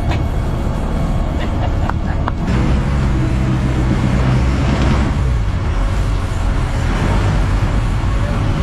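Fishing boat's engine running under a steady noisy rush, with a low hum that swells from about two and a half seconds in and fades a few seconds later.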